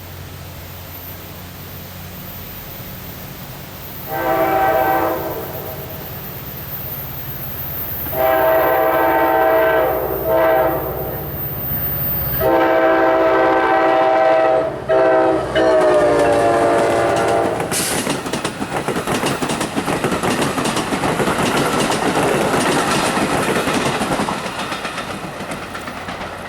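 Train horn sounding a series of blasts as a train nears a grade crossing, short and long, the last one dropping in pitch as the locomotive goes by. From about two-thirds of the way in the train rolls past with a steady rush and its wheels clacking over the rail joints.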